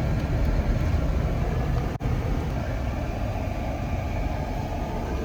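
Jeep driving on paved road: steady engine and tyre noise, with a momentary dropout about two seconds in.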